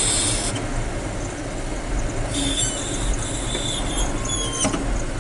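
Hino 500 FM320TI truck heard from inside the cab: a steady low rumble of engine and road, with short high-pitched squeals three times, the last sliding down in pitch.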